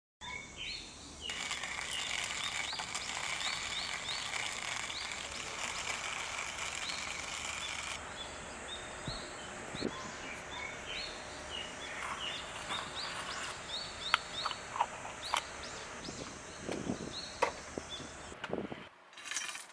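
Outdoor ambience with birds chirping over and over against a steady high hiss. Sharp clicks and knocks come in the last few seconds.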